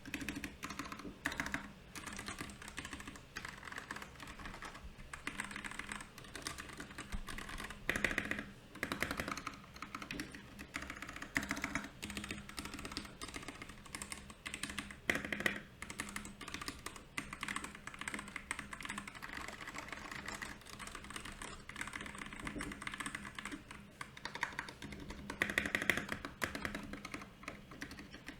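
Continuous typing on a Royal Kludge RK68 mechanical keyboard: a dense, steady stream of key clicks with a few louder flurries of keystrokes.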